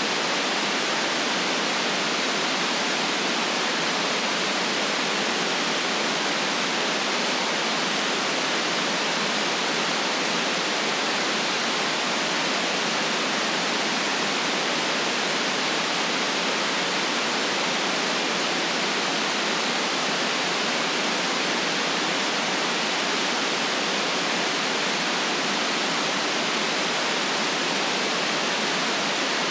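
Steady, electronically generated white noise: an even, unchanging hiss, weighted toward the high end and with little deep rumble.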